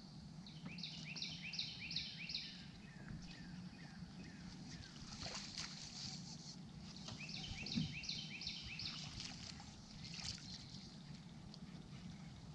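A songbird singing twice, each time a quick run of about five repeated down-slurred whistled notes. Near the end of the second run there is a dull knock, the loudest sound.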